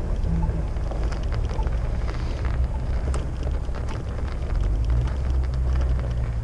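Wind buffeting the microphone in a steady low rumble while on the move, with scattered crackles and clicks throughout.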